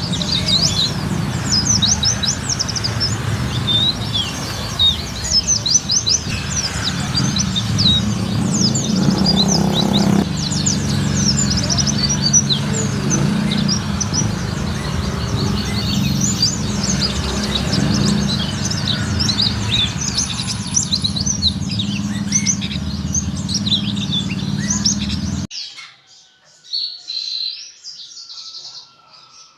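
Many caged songbirds chirping and trilling together in a dense, overlapping chorus over a steady low rumble. About 25 seconds in, the rumble cuts off suddenly and only a few quieter bird calls go on.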